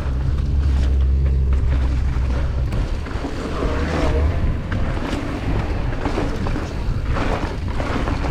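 Mountain bike descending a dirt trail, with a continuous rumble of tyres over the ground and many short rattles and clatters from the bike. A heavy low rumble fills the first three seconds and then eases off.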